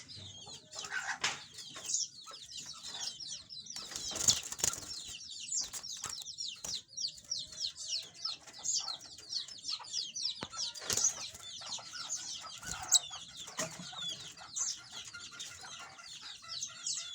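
Domestic canary singing: a steady stream of rapid, high chirps and trills, with occasional sharp knocks.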